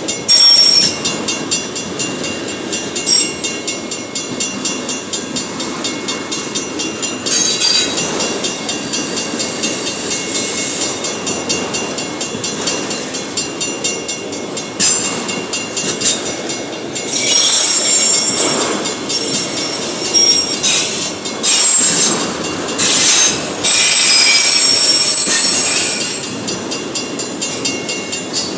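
Autorack freight cars of a long BNSF train rolling past, steel wheels rumbling on the rails, with high-pitched wheel squeal that swells louder in spells in the second half.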